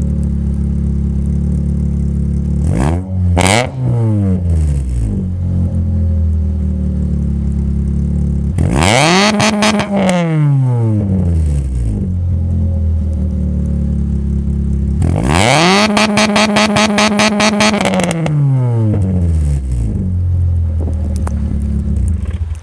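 Engine running through a split dual exhaust, idling steadily and revved three times: a short blip, a stronger rev, then a longer rev held for about three seconds before dropping back to idle.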